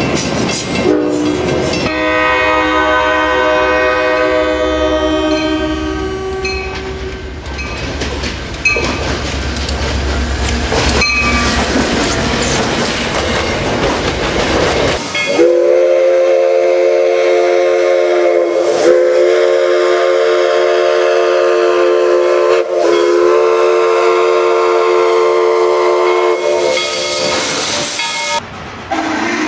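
Recorded real trains: a locomotive air horn chord sounds as a train passes, its pitch dropping, then the rumble of the passing train with wheels clacking over rail joints. About halfway through, a loud horn chord is held long, broken twice briefly, and near the end a burst of steam hisses.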